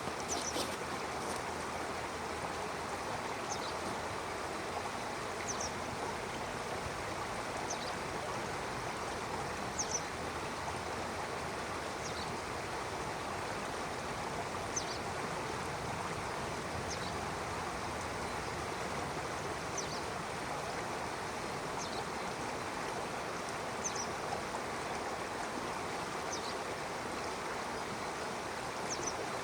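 Stream running steadily, a constant rush of water. A bird gives a short high chirp about every two seconds over it.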